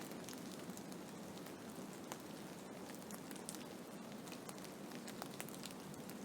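Blizzard ambience: a steady hiss of wind-driven snow, with many small sharp ticks scattered through it as snow strikes a surface.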